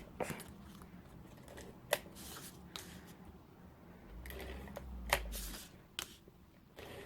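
Cardstock and adhesive tape being handled on a craft table: scattered light clicks and taps with short papery rustles, and a dull low rumble about four to five and a half seconds in.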